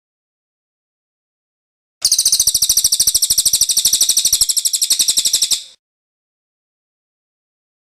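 Cililin bird singing its rolling trill: one fast run of about a dozen high, even notes a second, starting about two seconds in and lasting about three and a half seconds. The silence around it cuts in and out abruptly, as in an edited, looped song recording.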